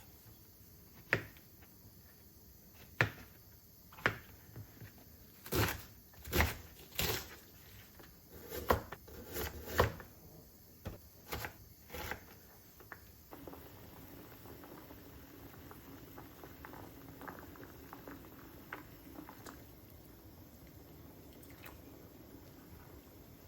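Kitchen work: a string of sharp knocks and clatters of utensils and containers for about twelve seconds, then a steady hiss with small crackles.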